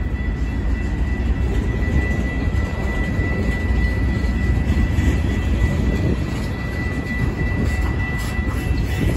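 Freight cars rolling past close by: a steady low rumble of steel wheels on rail, with a few sharp clicks near the end. A steady high-pitched tone sits above it.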